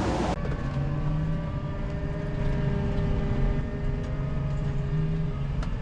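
A tractor engine running at a steady speed with a low, even hum. Before it, a loud rushing noise cuts off suddenly about a third of a second in.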